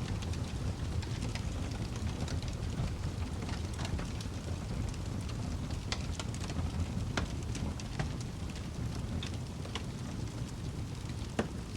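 Wood fire in a fireplace crackling: a steady low rumble of the flames with irregular sharp pops and snaps of burning wood, a few louder pops scattered through.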